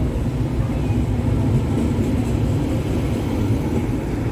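Tyne and Wear Metrocar electric train pulling away from the platform, a loud steady rumble of wheels and motors as the cars run close past.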